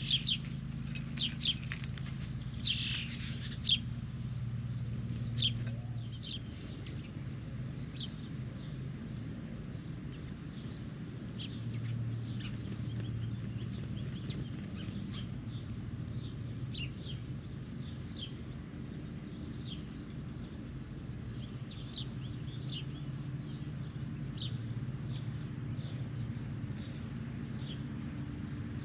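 Birds chirping in short, sharp calls repeated throughout, most frequent and loudest in the first few seconds, over a steady low hum.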